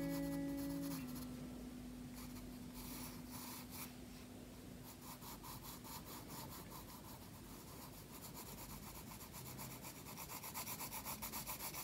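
Graphite pencil shading on sketchbook paper: a faint scratchy rubbing of short back-and-forth strokes, settling into a steady rhythm of about four strokes a second near the end. A held musical chord dies away over the first few seconds.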